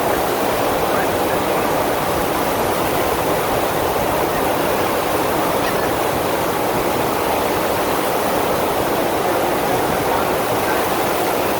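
Steady rush of water from a FlowRider surf machine, its pumped sheet of water pouring over the ride surface.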